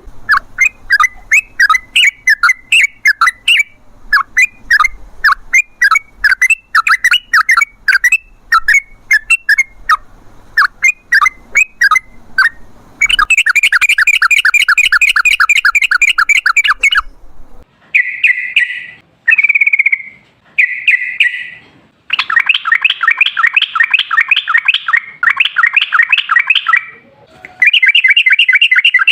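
Yellow-vented bulbul (trucukan) singing. It starts with quick phrases of short rising chirps, then about halfway through breaks into long, fast trilling runs, the drawn-out 'ropel' song.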